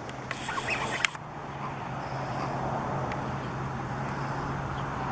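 A brief loud noise in the first second, then a steady low rumble of road traffic with a faint hum.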